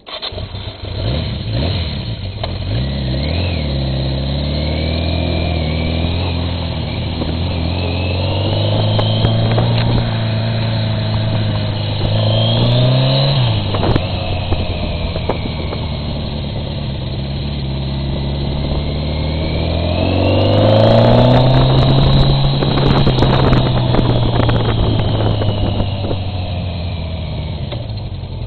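Motorcycle engine running and accelerating, its pitch climbing and dropping as it shifts through the gears, with wind rushing over the bike-mounted camera.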